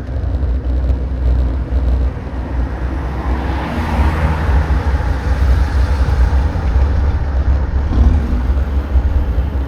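Loud, jittery rumble and rattle of a bicycle riding over a rough road, picked up through vibrating handlebar fittings; the uploader puts the bad sound down to vibrating armrests or the DJI camera mount. A broader hiss swells up about four seconds in.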